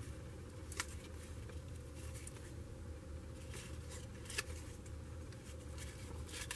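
Trading cards being handled and flipped through by hand: faint rustling with a few soft snaps, the sharpest about a second in and again just past four seconds.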